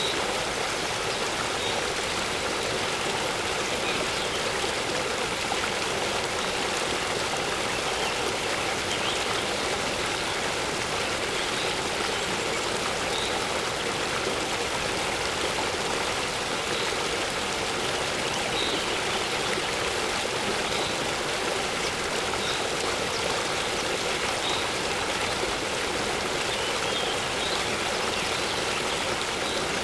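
Steady rushing water of a small waterfall, with faint short bird chirps scattered through it.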